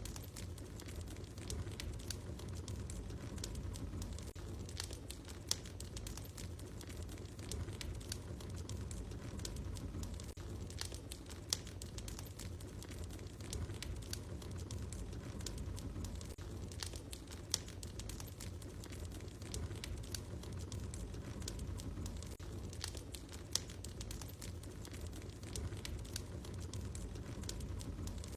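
Wood fire burning in a fireplace, crackling steadily over a low rumble, with a louder pop about every six seconds.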